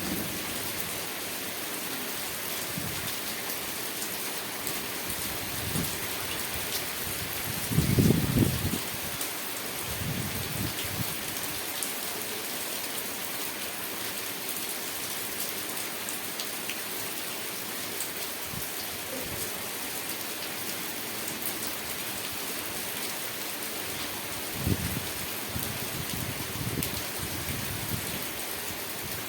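Steady rain falling, an even hiss of drops throughout. A few brief low rumbles break through, the loudest about eight seconds in and a couple more near the end.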